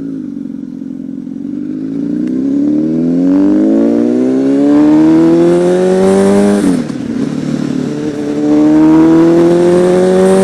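Honda CBR1000RR Fireblade's inline-four engine pulling hard, rising in pitch for several seconds. About two-thirds of the way in the pitch drops suddenly as it shifts up a gear, then climbs steadily again.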